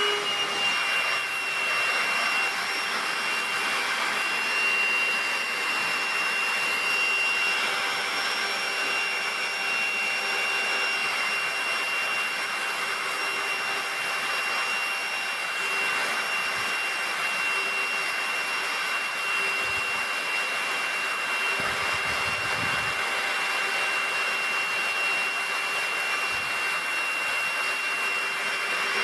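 A salvaged pressure washer's electric motor and pump running steadily under power, pumping water out through the hose. It is a constant high whine with a lower hum over a hiss.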